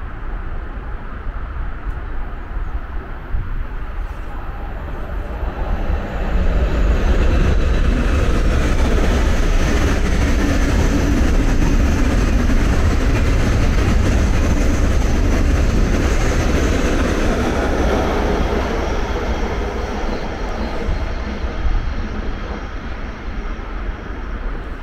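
A train running past on the rails. The noise swells about six seconds in, stays loud for about twelve seconds, then fades near the end.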